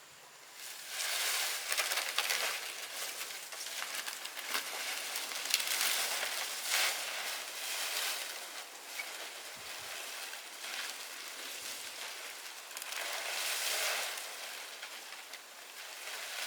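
Rustling, crunching noise in uneven swells lasting a second or two each, with a few sharp clicks among them.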